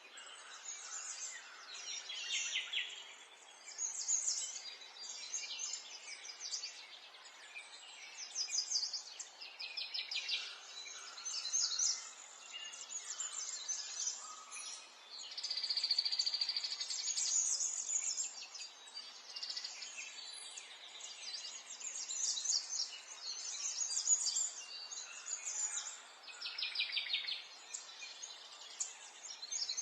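Several small songbirds chirping and trilling in overlapping bursts, each phrase a quick run of high notes lasting a second or two, over a faint steady background hiss.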